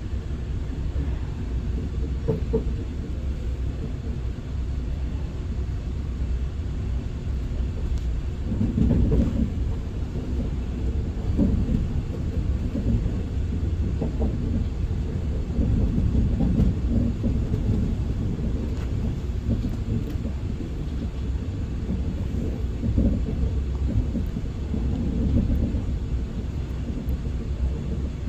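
Running noise inside the passenger cabin of an SR 120000-series high-speed train at speed: a steady low rumble that swells and eases every few seconds.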